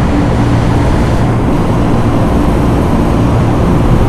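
Steady, loud mechanical drone with a low hum from rooftop ventilation machinery, running evenly throughout.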